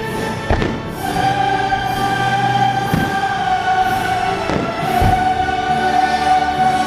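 Choral music for a fireworks show, with firework shells thudding about four times through it.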